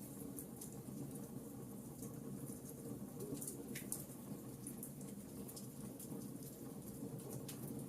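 Burning logs crackling: irregular sharp pops and snaps, several a second, over a low steady rumble of the fire.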